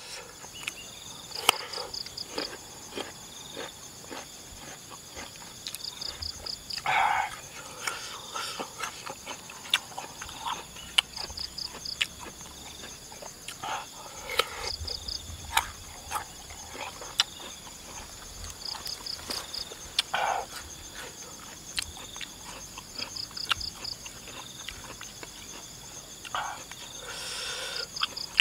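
Crisp bites and wet chewing of raw jicama dipped in chili sambal, with sharp crunchy clicks throughout and a few louder mouth sounds. Insects chirp steadily in the grass, with short bursts of rapid chirps every few seconds.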